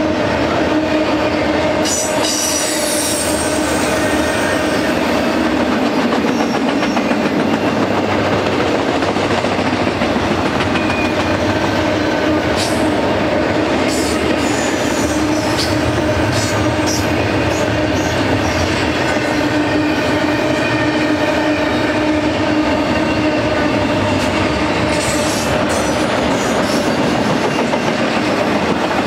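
Double-stack intermodal container freight train rolling past at speed, a steady loud rumble and clatter of steel wheels on rail. Brief high wheel squeals break through several times.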